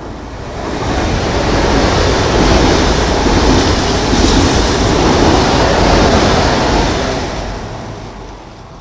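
SBB ETR 610 electric tilting high-speed train running through at speed: a rush of air and wheel-on-rail noise that swells over the first second or two, holds loud for about five seconds as the train goes by, and fades over the last two seconds.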